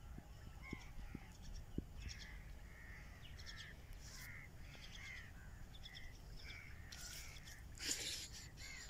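Faint short bird calls, repeated many times about every half second, with a brief rustle near the end.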